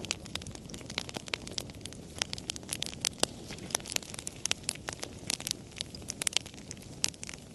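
Campfire crackling: irregular sharp pops and snaps, several a second, over a soft steady low rush of the flames.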